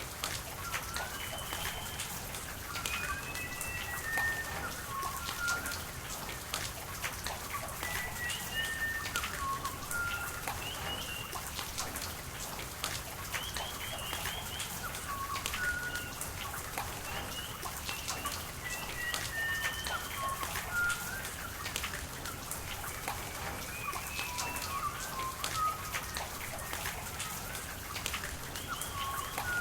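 Steady rain with drops pattering, and a bird calling over it in short chirps that recur every second or two throughout.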